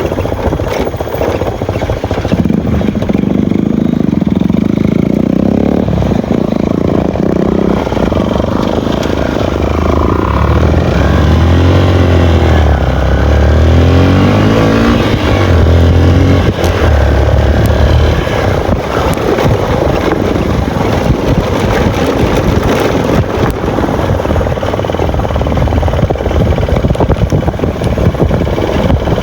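Motorcycles riding in a group, their engines running loud with revs that rise and fall in pitch, most clearly in the middle of the stretch.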